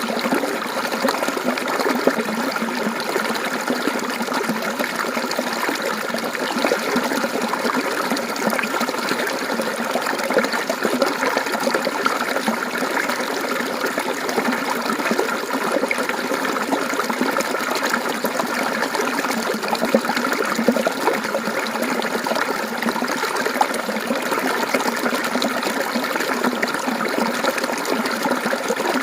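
Mountain stream water flowing and trickling, a steady babbling with small splashes.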